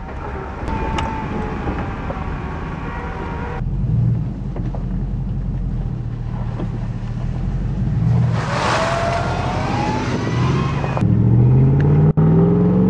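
Stripped-down 1995 Chevy Silverado pickup's engine running as the truck drives. A rushing hiss comes in partway through, and near the end the engine note climbs as it accelerates.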